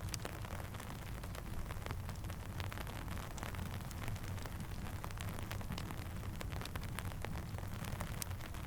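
Steady rain hissing with a campfire crackling: scattered sharp pops and ticks over an even wash of rain and a low steady rumble.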